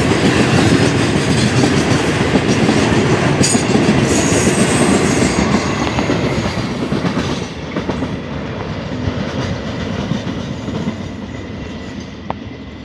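Freight train of oil tank wagons rolling past, with steady wheel-on-rail noise. The noise drops about seven and a half seconds in, once the brake van at the tail has gone by, then fades as the train moves away.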